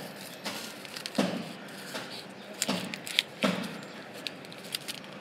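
Paper being handled and folded: a few short rustles and crinkles, spaced about a second apart.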